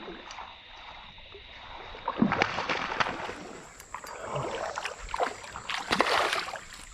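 Creek water splashing and sloshing in irregular splashes, picking up about two seconds in.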